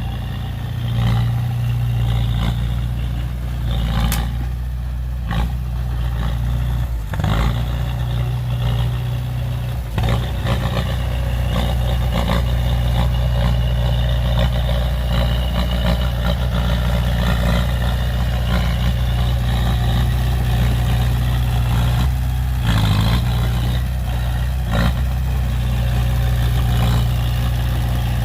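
Heavy diesel engines of earthmoving machinery, a bulldozer and dump trucks, running steadily under load. Occasional clanks and knocks sound through the engine drone.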